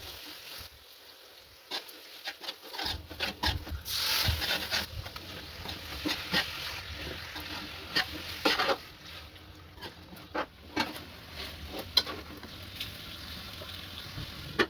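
Cooking utensils scraping and knocking in a pan, in irregular strokes with several sharper clacks.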